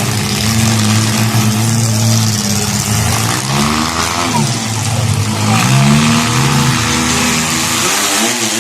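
Demolition derby car engines revving hard, their pitch sweeping up and down over and over as the cars accelerate and back off.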